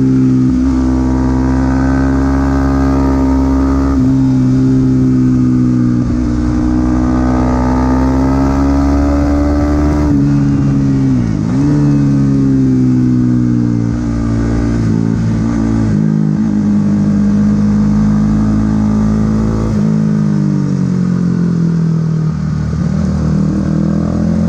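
Supersport 300 racing motorcycle engine running at a steady high pitch, dipping briefly about halfway through, then easing slowly lower over the second half.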